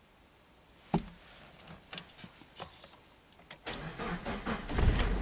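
A sharp click about a second in and a few lighter clicks, then a Mazda MX-5's starter cranks and the engine catches near the end.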